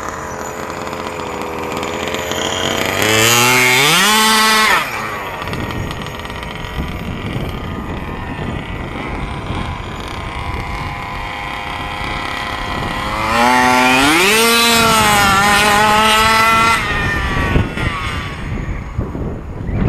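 Two-stroke petrol engine of an HPI Baja 5B 1/5-scale RC buggy on full-throttle speed runs. It screams up to high revs twice, each burst lasting about two to three seconds with the pitch climbing steeply and then dropping away. A fainter engine drone runs in between.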